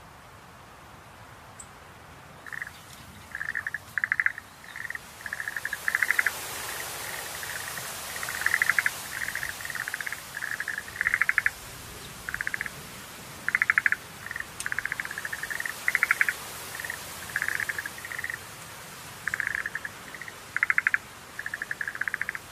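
Schlegel's green tree frogs calling: short pulsed trills near 2 kHz, one after another, beginning about two and a half seconds in, over a steady hiss.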